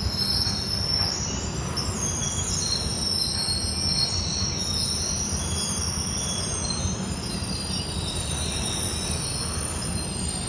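Freight train of covered hopper cars rolling slowly past, the wheels squealing in several wavering high-pitched tones over a steady low rumble of wheels on rail, as the train slows to a stop.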